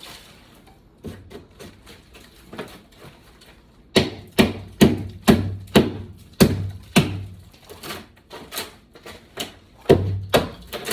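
Hammer blows on wooden flooring. Lighter taps come first, then a run of hard, ringing strikes at about two a second from about four seconds in, and another hard blow near the end.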